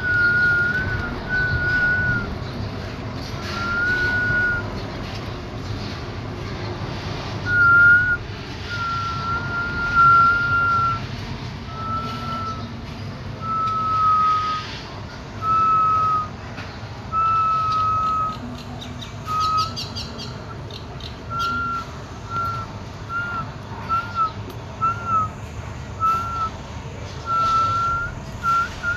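A clear, pure whistle: a string of single notes at about the same pitch, the early ones held for about a second each, the later ones shorter with small rises and falls. A short burst of high chirps comes about twenty seconds in.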